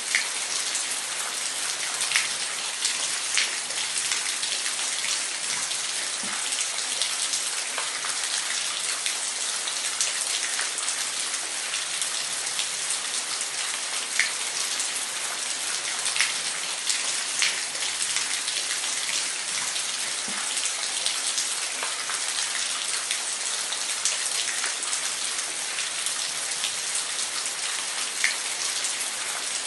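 Waterfall: a steady, even hiss of falling water, speckled with many small sharp drip and splash ticks.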